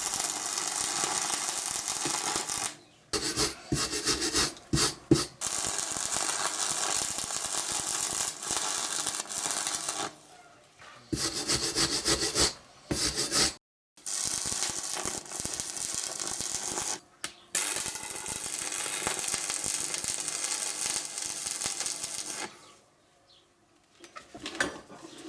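Stick (arc) welding on steel square tube: a steady crackling, frying hiss from the arc, in several runs of a few seconds each with short breaks between them and a longer pause near the end.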